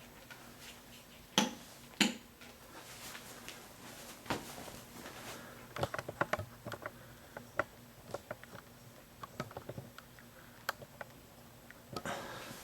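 Clicks and light knocks of plastic parts being handled as the Hoover Linx stick vac's dust bin is opened and emptied of picked-up sand. Two sharp clicks about a second and a half and two seconds in, then a run of irregular small ticks and taps, with a louder click near the end.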